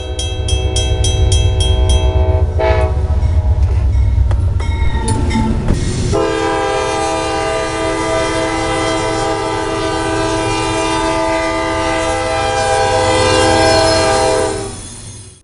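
Freight locomotive air horn sounding a multi-note chord over the low rumble and clickety-clack of a passing train: one blast ends about two and a half seconds in, a short toot follows, then a long blast from about six seconds in until the sound cuts off near the end.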